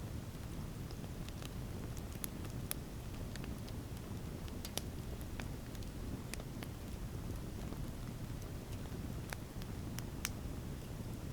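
Outdoor wood campfire crackling, with irregular sharp pops, a couple standing out about five and ten seconds in, over a steady low rumble.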